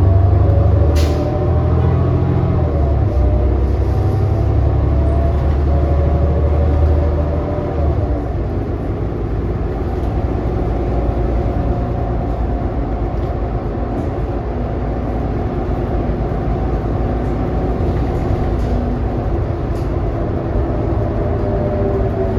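Onboard sound of a New Flyer XD40 diesel city bus underway: a steady low engine drone with several whining tones that waver in pitch above it. A sharp click comes about a second in, and the low drone eases off about seven to eight seconds in.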